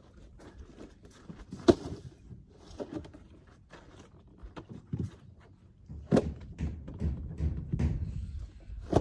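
Irregular knocks and light thuds as waffle pods are handled and set down in place. The sharpest knocks come about two seconds in, around six seconds, and at the end.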